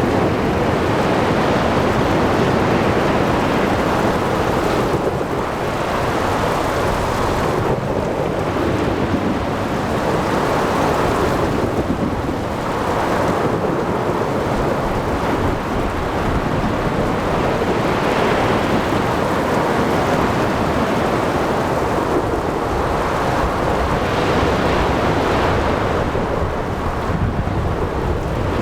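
Storm at sea: waves surging and breaking in slow swells every few seconds under steady rain and wind, with a low rumble of thunder beneath.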